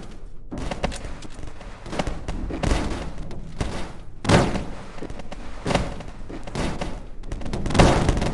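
A string of irregular crashes and thuds, roughly one every second, with the loudest about four seconds in and again near the end.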